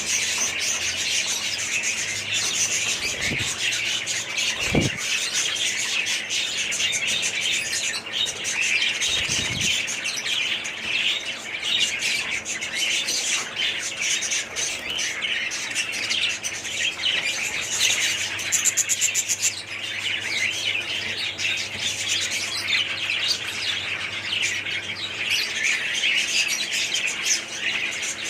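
A flock of small pet parrots chattering and chirping continuously, many high, quick calls overlapping. A few brief low thuds can be heard during the first ten seconds.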